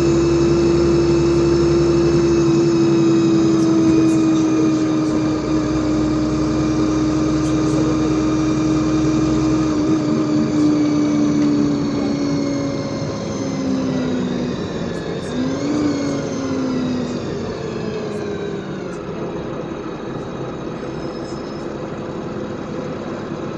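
LiAZ 5292.65 city bus under way: drivetrain whine and engine rumble. The whine holds steady, then falls slowly in pitch and fades over the second half as the bus slows.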